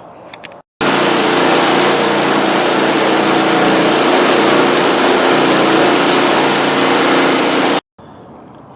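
Two-stage snow blower's small engine running steadily. It cuts in abruptly about a second in and cuts off abruptly near the end.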